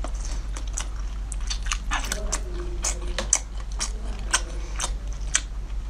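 Close-miked chewing of soft lobster meat: moist mouth clicks and smacks at uneven intervals, roughly two a second, over a steady low hum.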